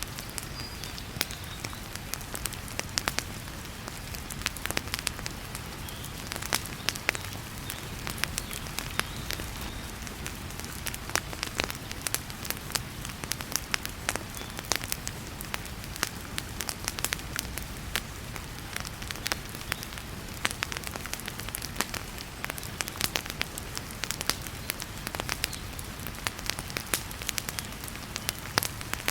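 Wood fire crackling with frequent sharp, irregular pops, over a steady hiss of heavy rain.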